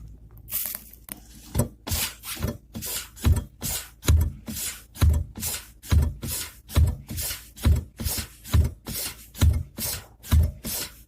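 Chery Tiggo 4 brake vacuum booster knocking each time the brake pedal is released, with the pedal worked over and over: a heavy low thump about once a second, with lighter clicks between. The knock is the sign of a faulty vacuum booster.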